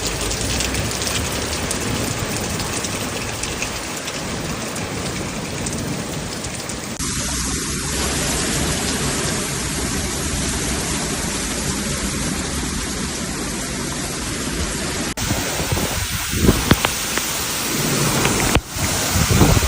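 Heavy storm rain pouring steadily, heard as a dense hiss that changes abruptly about 7 and 15 seconds in. In the last few seconds, irregular loud gusts of wind buffet the microphone.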